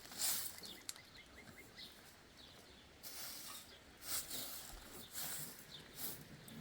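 Short hissing swishes, repeating roughly once a second, with faint high bird chirps in between.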